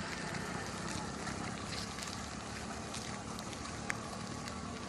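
Faint, steady outdoor background noise with some wind on the microphone, and a single small click about four seconds in.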